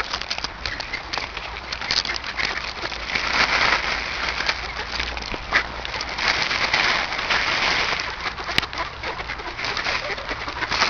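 A large flock of ducks calling and jostling as they feed, a dense overlapping chatter that swells louder twice, with a sharp click late on.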